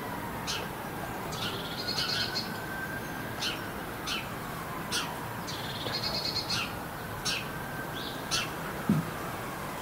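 Small garden birds chirping: a dozen or so short high chirps and a couple of brief buzzy trills, over a faint distant siren that slowly falls and rises in pitch. A short low thump near the end.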